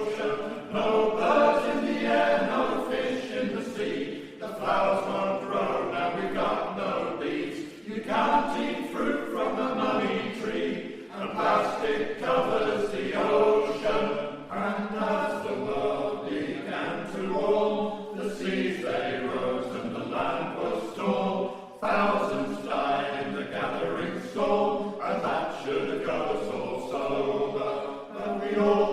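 Male voice choir singing a sea shanty, phrase after phrase with brief breaths between.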